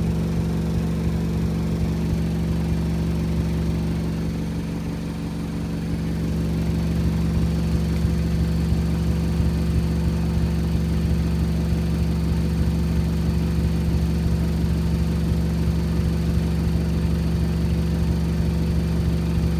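AEG Öko-Lavamat washing machine's motor and drum running in a spin, a steady hum with a brief dip in level about five seconds in.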